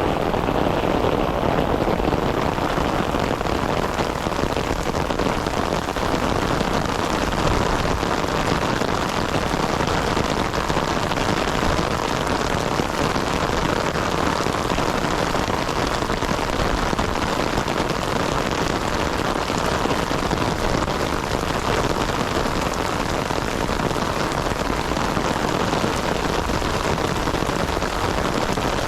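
Heavy rain falling, a steady, dense hiss of drops that holds at an even level throughout.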